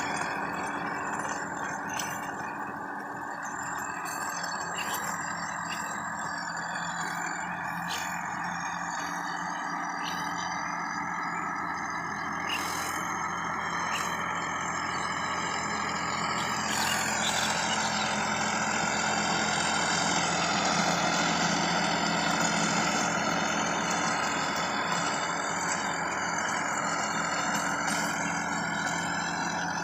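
Sonalika DI 50 RX tractor's diesel engine running steadily, its pitch easing down about halfway through, with a few scattered clicks.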